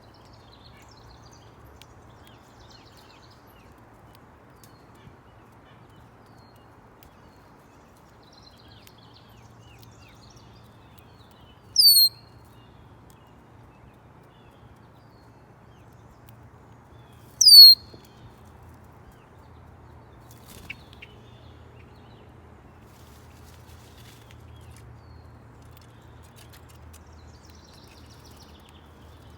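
A songbird at a feeder gives two short, sharp calls that slide down in pitch, about five and a half seconds apart. Fainter chirps from other birds sound in between.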